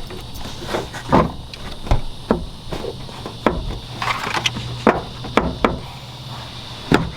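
Irregular sharp knocks and clicks, about a dozen, of parts being handled and test-fitted around a truck's radiator and trimmed lower plastic.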